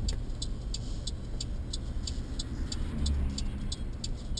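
Car turn signal ticking steadily, about three clicks a second, over the low rumble of the car driving, heard inside the cabin.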